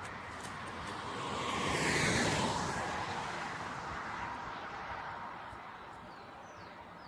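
A vehicle passing by on the road, growing louder to a peak about two seconds in and then fading away.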